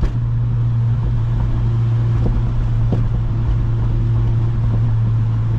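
Honda Civic Si's K20 four-cylinder engine droning at a steady cruise, heard from inside the cabin, with an even hiss of tyres on a wet road.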